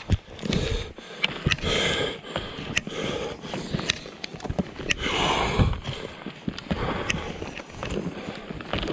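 Skis moving over snow in swishes, with scattered clicks and knocks from the ski gear.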